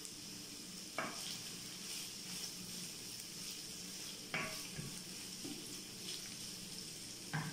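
Chicken, celery and carrot sizzling as they sauté in butter in a deep nonstick pan. They are stirred with a wooden spoon that knocks against the pan three times, about three seconds apart.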